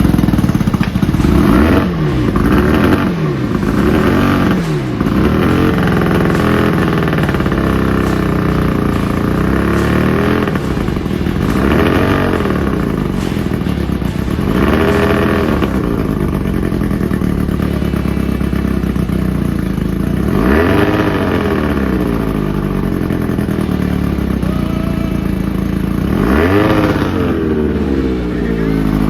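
Small boat engine, freshly revived, running loudly and being revved repeatedly: about six times the pitch climbs and falls back as the throttle is opened and released, the clearest near the end.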